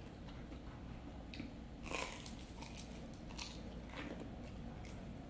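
A person chewing a mouthful of fried donut topped with melted cheese with the mouth closed, with a few faint, irregular soft crunches, the clearest about two seconds in.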